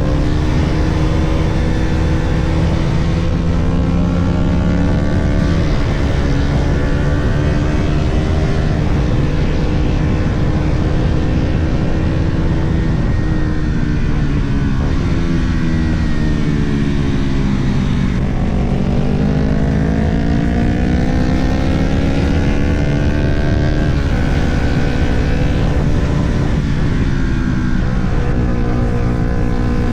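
Sport motorcycle engine under hard riding at speed, revs rising and falling through the gears, with wind rush on the microphone. Near the middle the engine note falls steadily for a few seconds as the bike slows, then climbs again under acceleration.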